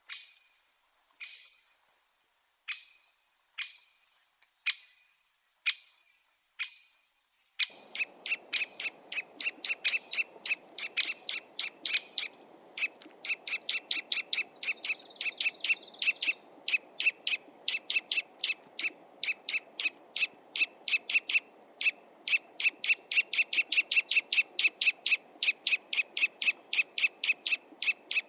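Garden bird calls: sharp single call notes about once a second, then about seven seconds in a fast, even run of repeated notes at one pitch begins over a steady outdoor background hiss.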